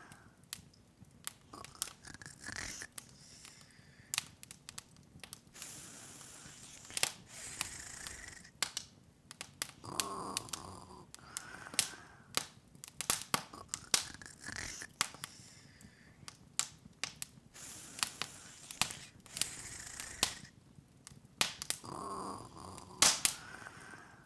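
Open wood fire crackling, with irregular sharp pops and snaps, a few of them much louder than the rest, over soft hissing.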